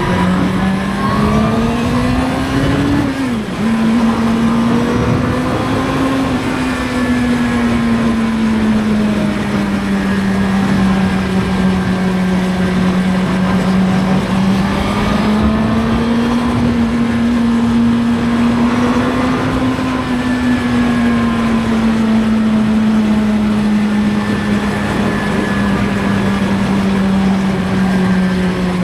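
Suzuki GSX-R750 inline-four engine on the move, revving up and dropping in pitch with a gear change about three seconds in, then holding a steady cruise with slow, gentle rises and falls in engine speed, over wind noise.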